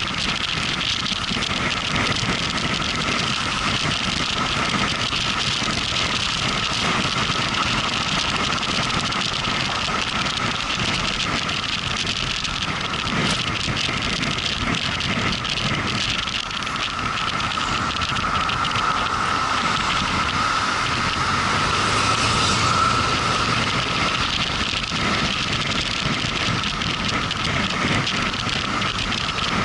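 Motorcycle ride at road speed: a steady rush of wind and road noise over the running engine, with a steady whine that grows stronger past the middle.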